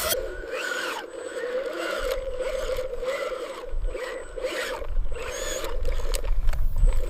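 Radio-controlled construction model working: a steady motor whine with scraping and grinding of dirt and small stones, and short rising and falling whirs from the drives.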